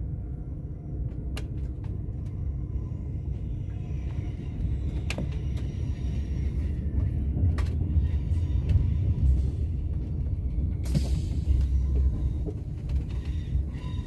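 Low, steady cabin rumble of a Euroduplex TGV double-deck high-speed train in motion, with scattered light clicks and a short burst of hiss about eleven seconds in.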